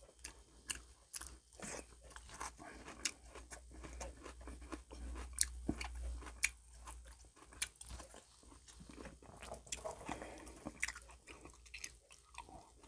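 A person chewing and biting into crispy fried food, with many irregular sharp crunches a few times a second.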